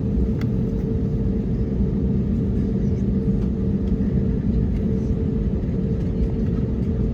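Steady low rumble and hum inside the passenger cabin of an Airbus A321neo on the ground before takeoff, with a constant drone and no change in level.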